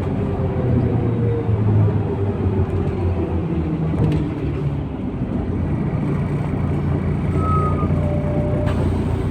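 A MAZ-103 city bus's diesel engine and drivetrain heard from inside the cabin during the ride. The engine note falls in pitch over the first couple of seconds, then settles into a steady low rumble, with a click about four seconds in and another near the end.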